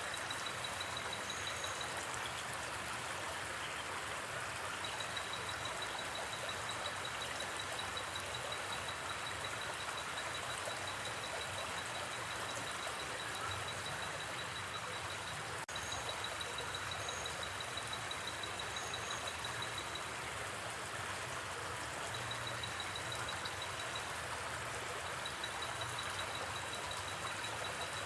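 Gently flowing river water, a steady rushing. Over it runs a high, rapidly pulsing insect trill that stops and starts in long runs, with one sharp click about halfway through.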